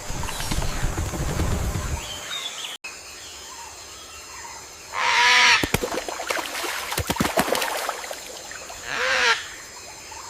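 Wildlife ambience. A low rumbling noise stops abruptly about two and a half seconds in, then two short, harsh animal calls sound about four seconds apart, with a quick patter of clicks between them.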